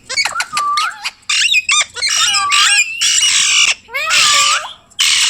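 Indian ringneck parrot calling: a rapid series of harsh screeches mixed with whistled calls that glide up and down in pitch, with brief pauses between bursts.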